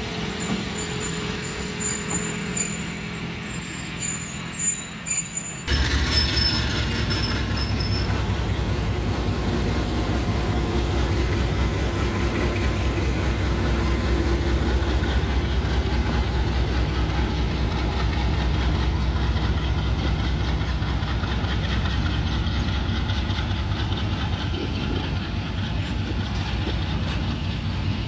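Passenger train rolling past with a thin high wheel squeal. About six seconds in, a diesel locomotive's engine takes over close by: a heavy, steady, low rumble.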